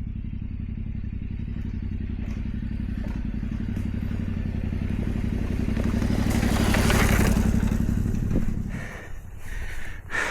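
Motorcycle engine running steadily at low revs, with a rushing hiss that swells and fades around the middle. The engine cuts off about nine seconds in, followed by a few light knocks.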